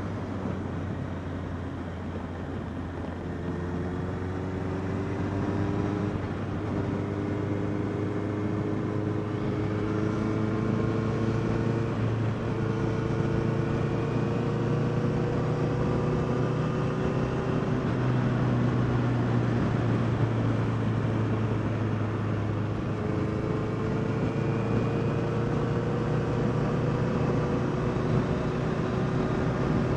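Honda CBR650R's inline-four engine running under way, its pitch climbing slowly in several stretches and dropping suddenly a few times as the bike shifts up or rolls off, over steady riding noise.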